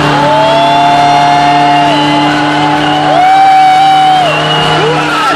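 A car doing a burnout: the engine is held at high revs in a steady drone while the spinning tyres squeal. The squeal comes as long tones that rise, hold and fall away, twice.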